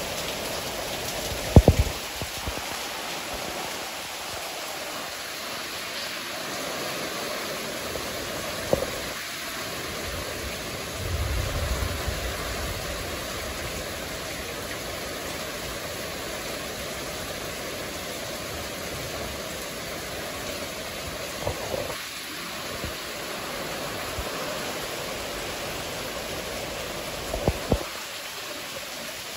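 Steady rain falling in a thunderstorm, an even hiss throughout. A few sharp taps close by stand out, four of them spread through, and a brief low rumble comes about eleven seconds in.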